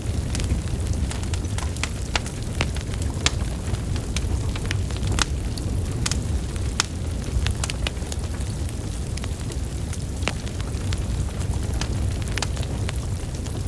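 Wood fire burning: a steady low roar of flames with frequent irregular crackles and pops from the burning logs.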